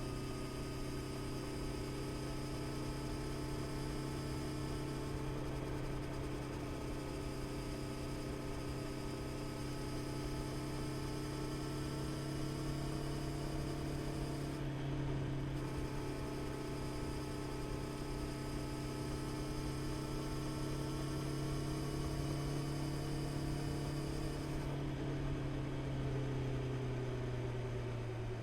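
Honda CB650R's inline-four engine running at a steady, nearly constant engine speed while cruising, a continuous even hum.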